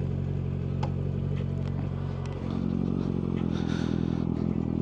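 2018 Kawasaki Z900's inline-four engine running through a Yoshimura aftermarket exhaust. About two and a half seconds in, it dips briefly, then picks up with more throttle and runs a little louder.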